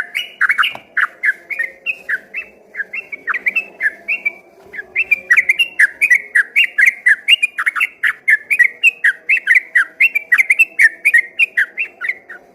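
Yellow-vented bulbul (trucukan) singing a long, rapid run of quick whistled notes in unbroken 'ropel' song, with a brief pause about four and a half seconds in. The song stops just before the end.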